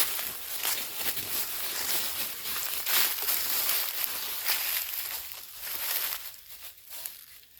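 Repeated crackly crumpling and tearing sounds, dying away near the end.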